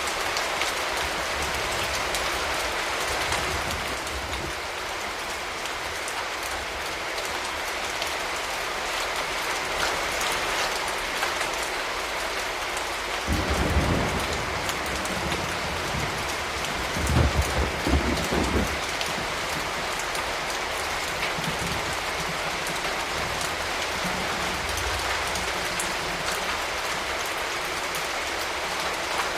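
Steady rain falling in an even hiss. About halfway through, a low rumble of thunder rolls in two swells.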